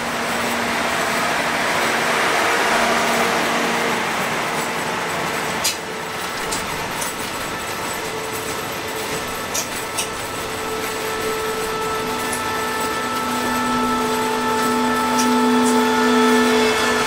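A train running slowly, with a steady rolling rumble and a few sharp clacks from the wheels. The steady hum of a CSR Qishuyan diesel-electric locomotive's engine swells in the last few seconds as the train draws close alongside it.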